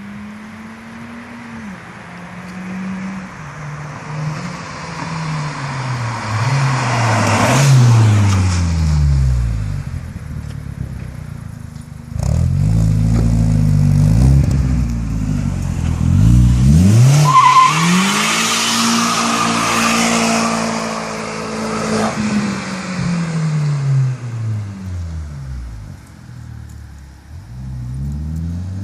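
Seat Leon 1M Cupra R's turbocharged 1.8-litre four-cylinder running through a Bull-X aftermarket exhaust, accelerating and backing off several times so the note rises and falls in repeated sweeps, loudest in the middle stretch.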